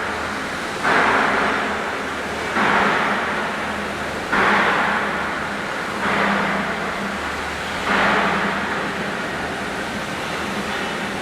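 Factory machinery with a steady low hum, over which a loud hiss starts suddenly about every second and three-quarters and fades away, five times, stopping near the end.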